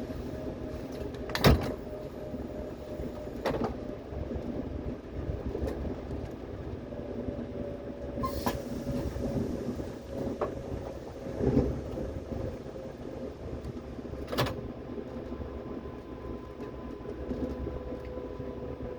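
Seoul Metro Line 8 subway train running, heard from inside the car: a steady rumble with a faint, slowly falling whine, and a few sharp knocks at irregular intervals, the loudest about a second and a half in.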